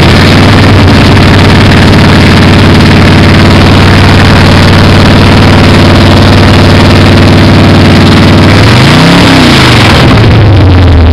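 Chevy 355 small-block V8 in a hobby stock race car, running steadily and very loud just after a cold start. About nine seconds in it is revved once, the pitch rising and falling back to idle.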